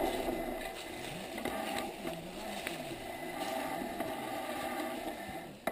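Bicycle rolling downhill on a wet forest road: steady tyre and riding noise with small rattling clicks and a low tone that wavers up and down.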